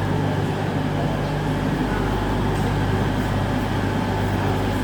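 Class 222 Meridian diesel multiple unit standing with its underfloor Cummins diesel engines idling, a steady low drone.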